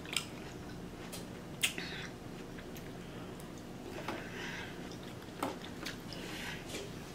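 Quiet chewing of cut fresh fruit, with a handful of short, sharp clicks and taps scattered through it as a plastic fork picks at fruit in a plastic tray.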